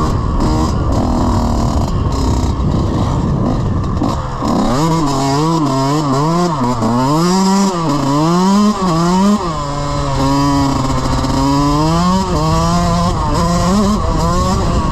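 Off-road motorbike engine revving up and down repeatedly, its pitch rising and falling about once a second, then running steadier near the end. Before that, for the first few seconds, a dense rushing noise.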